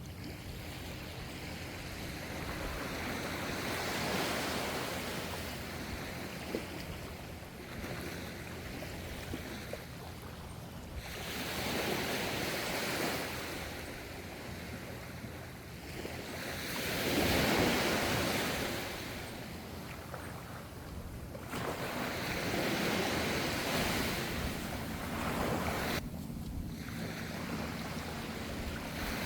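Gentle ocean waves washing in, the sound rising and falling every five to eight seconds, with the loudest wave a little past the middle.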